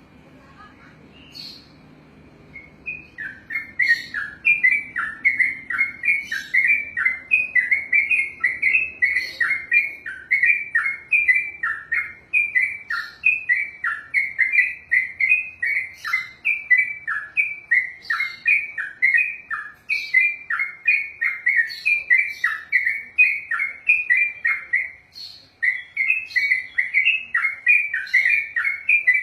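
Yellow-vented bulbul (trucukan) singing a long, unbroken rolling song, its 'ropelan': a rapid string of bright warbled notes, about three or four a second, that starts a few seconds in and does not pause.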